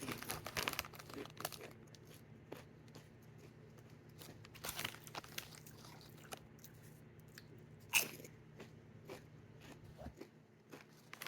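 Person biting into and chewing Doritos Tangy Ketchup tortilla chips: crisp crunches, bunched near the start, again around the middle, and one sharp crunch about eight seconds in.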